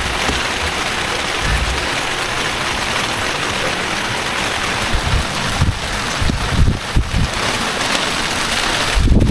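Heavy rain falling steadily, a dense, even hiss, with a few low thumps in the second half.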